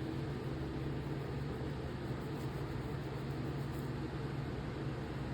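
Steady low mechanical hum with an even hiss, the kind a fan or similar running appliance makes; no distinct clicks or taps stand out over it.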